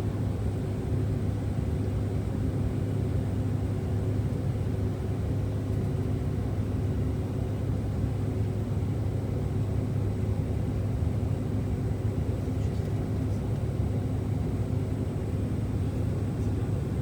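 Bombardier CRJ900 jet in its takeoff climb, heard from inside the cabin: a steady, unchanging low drone of the rear-mounted turbofan engines and airflow, with a few faint steady hums.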